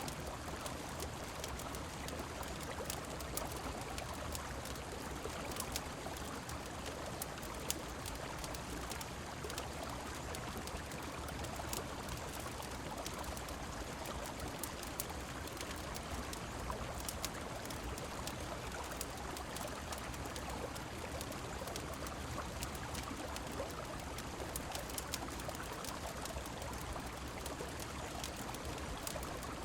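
Rain and river water rushing steadily, with scattered sharp crackles from a wood fire.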